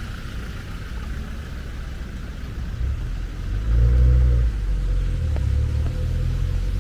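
Low rumble of a motor vehicle's engine, swelling briefly about four seconds in, then running steadily.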